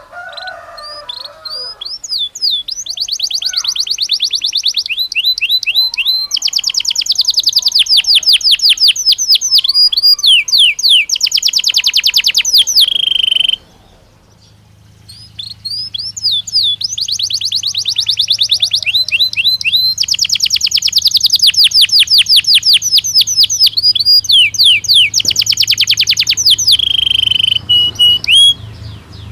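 Belgian canary singing: rapid rolling trills and repeated chirps in two long phrases separated by a brief pause about halfway through. The second phrase ends in a few lower held whistled notes.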